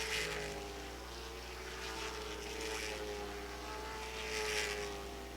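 Late model stock cars running laps on the oval, heard from a distance: a steady engine drone that drifts slightly in pitch, swelling a few times as cars come past.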